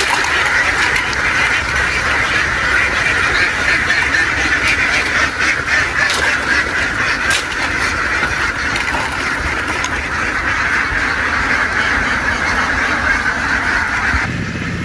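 A very large flock of domestic ducks quacking all together in a dense, continuous chorus. Near the end the chorus drops away suddenly and a low steady hum takes over.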